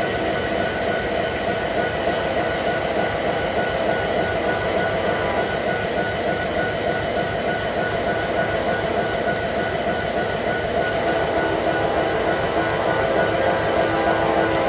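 Freight train cars rolling past with steady wheel noise and high squealing tones from the wheels, growing slightly louder near the end.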